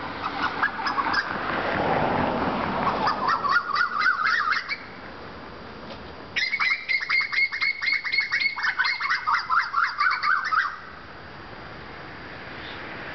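A songbird singing loud, rapid chattering phrases in two bouts: the first climbs in pitch, and after a short pause a longer run of fast repeated notes follows, stopping suddenly.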